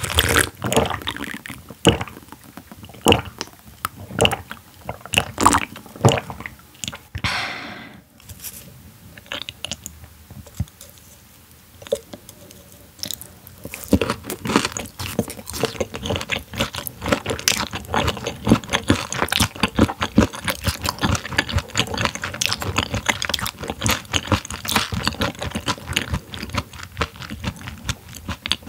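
Close-miked chewing of semi-frozen raw silver pomfret sashimi, with wet crunching mouth sounds. The chewing is spaced out at first and becomes a steady, rapid run of chews from about halfway on.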